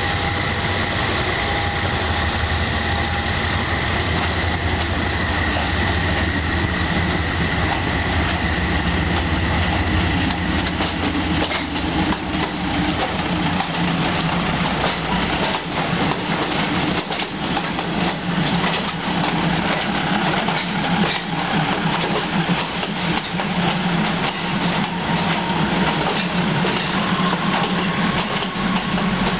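Diesel railcar train arriving slowly, its engines running. A steady low hum and a high whine give way after about ten seconds to wheels clacking over rail joints as the cars pass close by.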